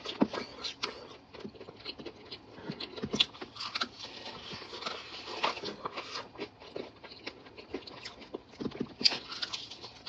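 Close-up chewing and crunching of crispy fried chicken breading: a run of irregular sharp crackles and crunches.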